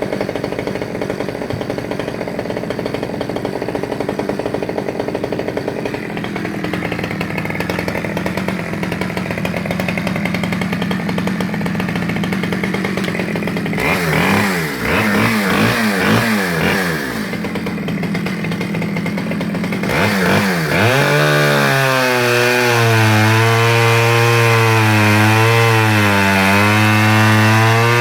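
Stihl 010AV's 37cc two-stroke chainsaw engine running while cutting logs. Its revs rise and fall several times about halfway through, then it holds high revs under load with the pitch wavering as it works through the cut.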